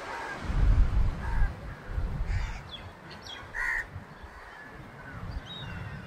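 A low rumble, loudest about a second in, with a few short bird calls about halfway through.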